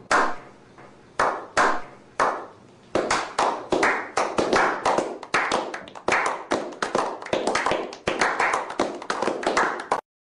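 Slow clap: single hand claps spaced about a second apart, joined after about three seconds by several more people clapping faster, building into small-group applause that cuts off suddenly near the end.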